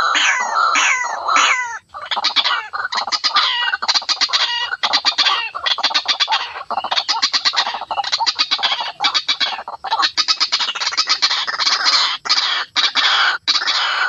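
White-breasted waterhen (ruak-ruak) calling, as in a bird-lure recording: a run of falling notes, about three a second, then from about two seconds in a fast chattering series delivered in short bursts.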